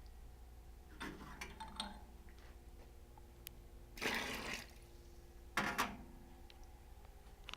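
Futurmat two-group lever espresso machine at work: a faint steady hum with short bursts of hissing, splashing noise about one, four and five and a half seconds in.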